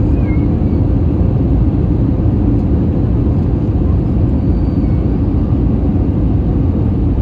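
Airbus A320 cabin noise in flight: a steady, loud rumble of engines and airflow.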